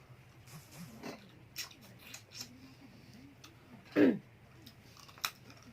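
Close-up eating sounds: a person chewing, with scattered small clicks and smacks. About four seconds in comes one brief louder vocal sound falling in pitch.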